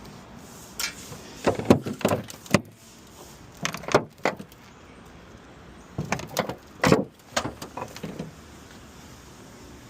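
Scattered knocks and clanks of metal parts being handled on a crash-damaged 2007 Honda Accord, coming in several short clusters with pauses between them.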